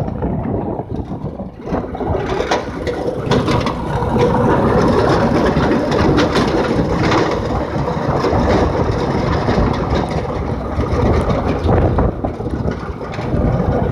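Go-kart's Predator 6.5 HP single-cylinder engine running, buried in a dense, loud rumble. The sound dips briefly about a second in, then comes back up and holds.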